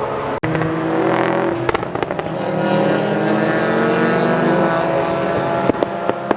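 A car engine running and revving, with sharp exhaust pops and crackles about two seconds in and again near the end.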